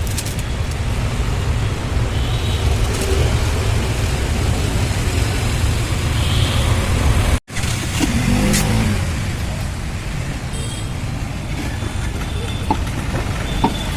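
Motor vehicle running, a steady low rumble with road noise, broken by a brief sharp cut about seven seconds in.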